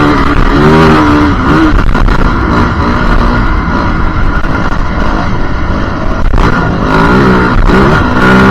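Yamaha WR450F single-cylinder four-stroke dirt bike engine running under load, its pitch rising and falling as it is revved and shifted, with a few sharp knocks from the ride.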